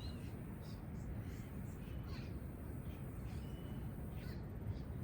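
Outdoor birds giving short, scattered high calls, one a brief thin whistle about midway, over a steady low rumble of ambient noise.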